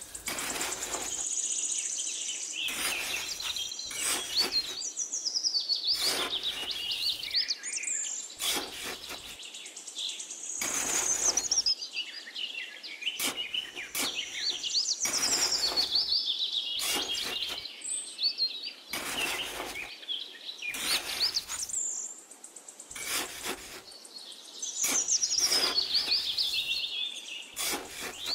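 Small birds chirping and singing in repeated high, warbling phrases, with short gritty scrapes about every second or two as a small trowel digs into sand.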